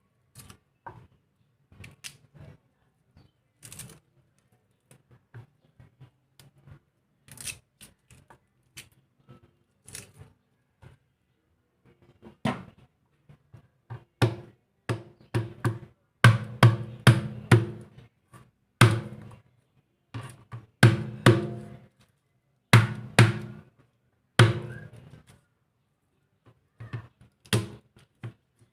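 A series of irregular heavy thunks, each with a short ringing after it, sparse and faint at first, then louder and more frequent from about halfway.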